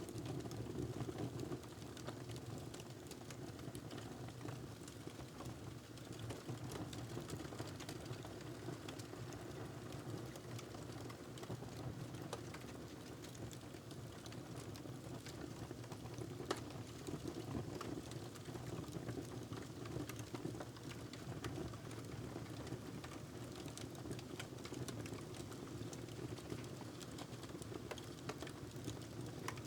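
Wood fire crackling in a fireplace: a steady low rumble of burning with frequent small crackles and pops, one sharper pop about halfway through.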